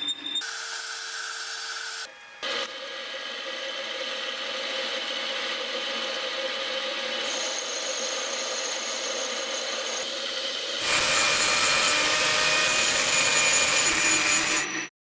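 A power tool working on a part, running steadily through several short edited clips. It is louder in the last few seconds and cuts off abruptly just before the end.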